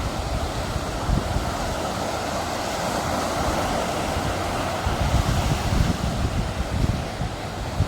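Sea surf washing onto the shore, one wave surging up and easing off around the middle, with gusts of wind buffeting the phone microphone.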